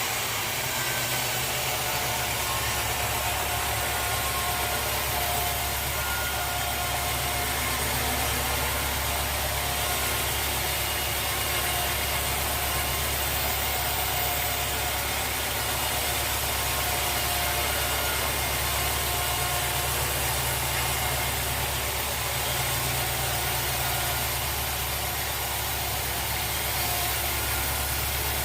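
Sawmill machinery running steadily: an even engine drone with a faint whine above it.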